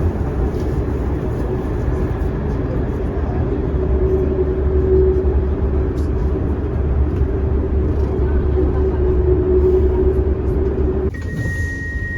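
Quito Metro train running, a steady rumble with an electric motor whine that swells and eases. About a second before the end the sound cuts abruptly to a quieter scene with a steady high tone.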